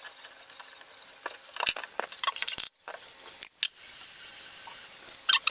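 Light clinking and rattling, like kitchen utensils against glass and metal, broken by two short pauses; a few short high squeaks come in near the end.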